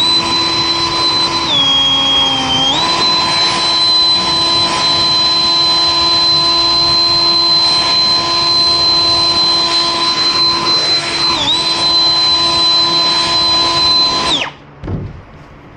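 An electric motor, such as a power tool's, runs at a steady high whine. It sags in pitch for about a second early on and briefly again later, as if under load, then is switched off and stops quickly about fourteen and a half seconds in. A dull thump follows.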